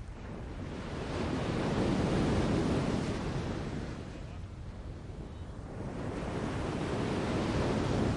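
A rushing noise that swells and fades twice in slow surges, like gusts or breaking surf.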